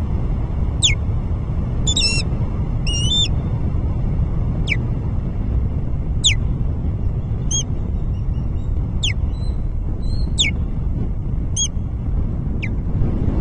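Osprey calling at the nest: a series of sharp, high whistled calls, most falling steeply in pitch, about one a second, with a couple of quick wavering calls near the start. A steady low rumble runs underneath.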